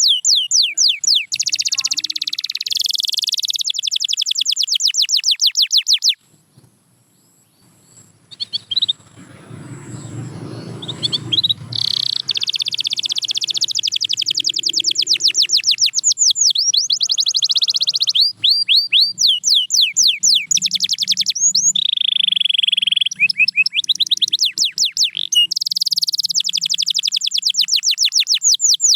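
Domestic canary singing in rapid trills of quickly repeated high notes, changing tour every few seconds. The song breaks off about six seconds in, a low muffled rumble follows, and the trills resume around twelve seconds in.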